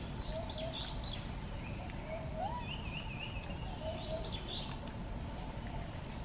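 Birds calling in the background: short repeated chirps and a warbling trill about three seconds in, over steady low outdoor background noise.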